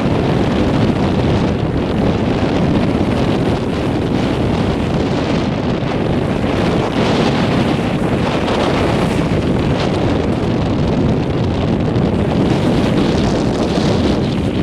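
Strong wind buffeting the microphone in a steady, loud rush, with beach surf beneath it.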